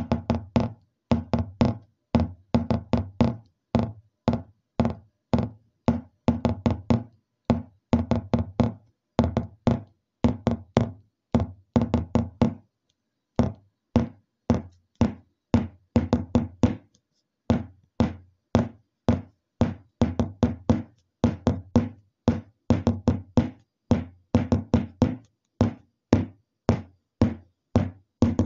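Rapid sharp knocks coming in quick runs of several a second, each with a short low ring, pausing briefly about halfway through.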